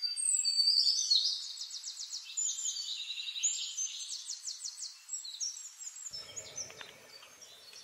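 A songbird singing high, quick phrases of rapid trills and whistled notes, fading toward the end; a faint low hum comes in about six seconds in.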